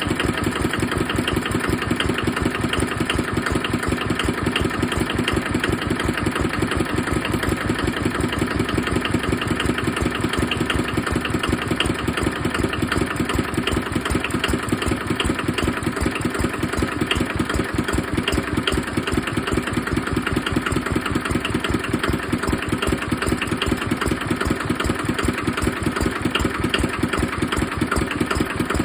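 Kubota KNDR55 engine running steadily at idle on a test run, an even, unchanging beat of firing pulses.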